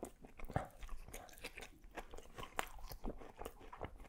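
Close-miked chewing and mouth sounds of a man eating a falafel waffle with lamb and cheese: irregular crunches and wet clicks, with a finger being licked at the start.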